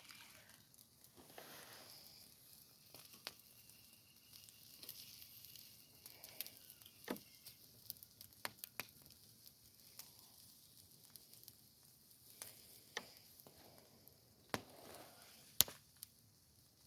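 Campfire crackling: scattered sharp pops at irregular moments over a faint hiss.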